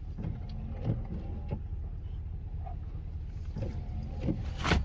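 Low, steady rumble of an idling vehicle engine, with a few faint knocks and a sharper one near the end.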